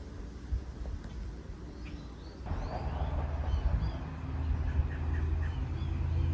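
Birds chirping in short calls over a steady low rumble, which grows louder about two and a half seconds in.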